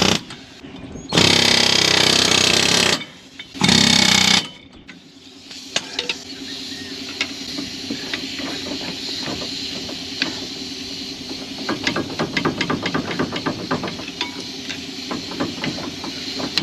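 Pneumatic air tool working on a Ford F-150's worn front ball joint: two loud bursts in the first few seconds, then a steady machine hum with rapid sharp taps that come thick and fast in the second half.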